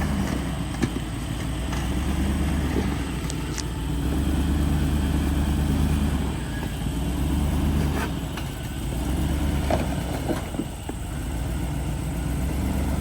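Chevrolet Suburban engine running at low revs while the truck crawls slowly over a rock ledge; the engine note swells and eases a few times as throttle is fed in and backed off. A few short, sharp clicks come through over the hum.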